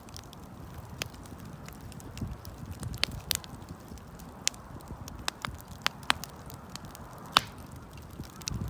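Wood campfire crackling, with irregular sharp pops over a low rumble of burning wood. The loudest pop comes about seven seconds in.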